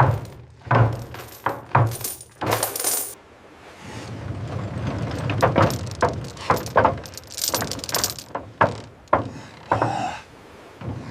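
Metal coins clinking and clattering: a run of separate sharp clinks and knocks, some ringing briefly, over a low steady hum.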